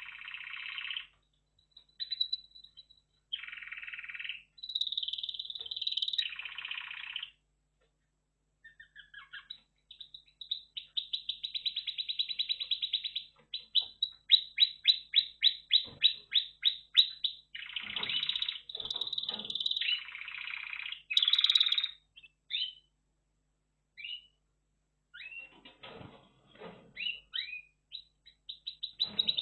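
Red factor canary singing: varied phrases of rapid trills and runs of quick repeated notes, broken by short pauses.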